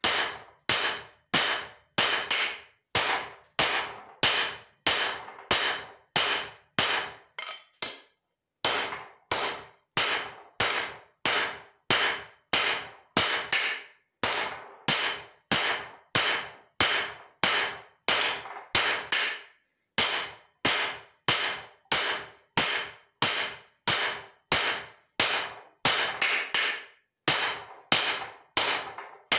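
Hand hammer blows on leaf spring steel over an anvil, a steady run of about one and a half strikes a second, each with a short metallic ring. The hammering breaks off briefly about a quarter of the way in and again about two-thirds through.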